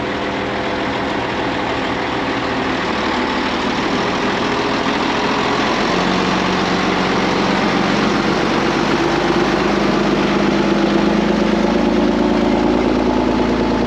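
Case 140 excavator's diesel engine running steadily under load, its pitch stepping up about six seconds in and holding there.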